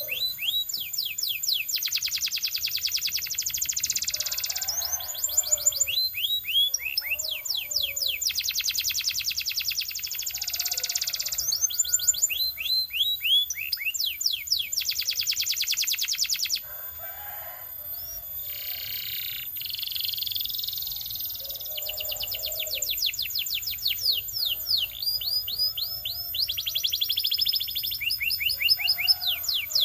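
Belgian canary singing a long, continuous song of fast buzzy rolls and trills alternating with runs of repeated downward-sweeping whistled notes. The song drops to a softer passage about halfway through, then builds back into rapid trills.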